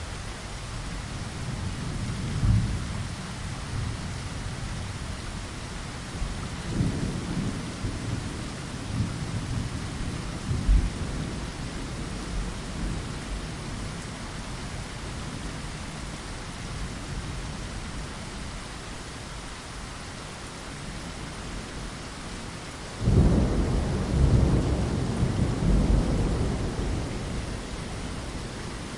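Steady rain patter on a window, with low rolls of thunder: lighter rumbles in the first half and a louder roll lasting a few seconds about four-fifths of the way in.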